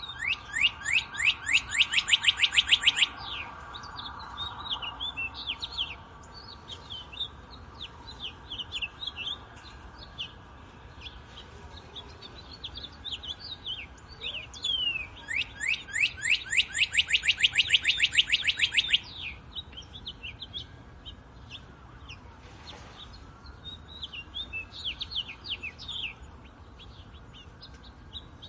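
Wild songbirds singing in a wood, several birds chirping in short high phrases. Two long, very rapid trills stand out, one at the start and one about halfway through.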